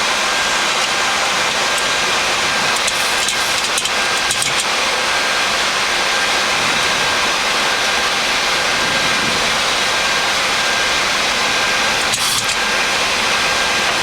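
Steady rush of flight-deck noise in a Boeing 737 MAX cockpit on approach: airflow and air-conditioning hiss, with a faint steady whine and a few light clicks.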